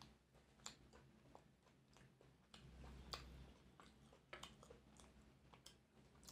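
Faint close-up eating sounds: chewing on saucy chicken Manchurian, with a dozen or so scattered soft clicks and taps as a plastic fork picks pieces off the plate.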